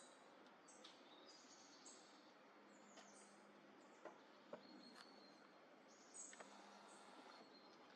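Faint high-pitched bird chirps repeating over quiet outdoor ambience, with a few short sharp clicks scattered through.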